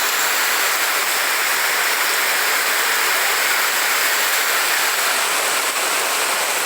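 Heavy rain and storm runoff rushing down a street, a steady, even wash of water noise.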